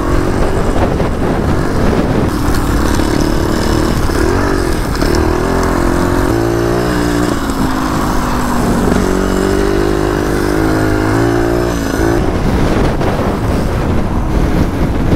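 Two-stroke trial motorcycle engine being ridden, its pitch rising and falling with the throttle. About twelve seconds in the engine note drops away, leaving a rough rumbling noise.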